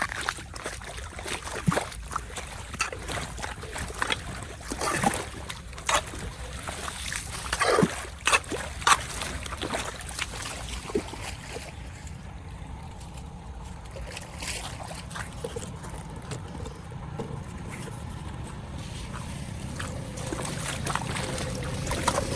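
Splashing, sloshing and scattered knocks and scrapes in shallow water as debris is worked out of a clogged storm drain. After about ten seconds this gives way to a steadier water sound that grows louder near the end.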